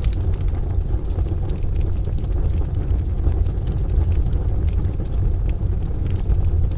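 Crackling wood fire, its scattered sharp pops and snaps laid over a steady deep rumble.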